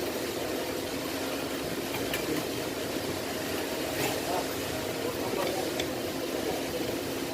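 Hyundai Azera 3.0 V6 engine idling steadily, with a few faint ticks.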